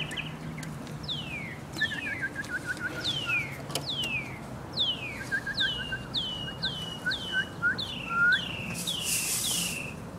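Songbirds calling: clear whistled notes that slide quickly downward, repeated many times and coming faster in the second half, mixed with runs of short rapid chirps. There is a brief hiss near the end.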